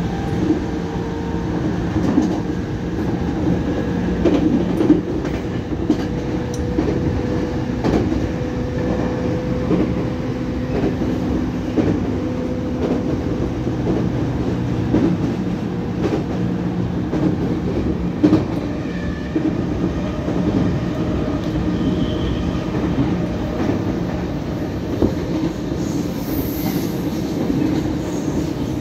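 Inside a JR E231-500 series electric commuter train running at speed: a steady rumble and hum from the wheels and motors, with knocks from the wheels over rail joints every second or two. Near the end another train passes on the next track.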